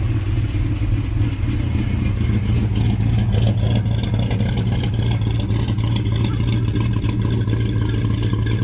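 1967 Plymouth Barracuda's freshly rebuilt 340 V8 idling steadily through aftermarket headers and mufflers.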